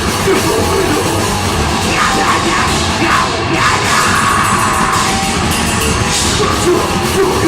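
Deathgrind band playing loud, dense distorted music live, with yelled vocals coming in about two seconds in.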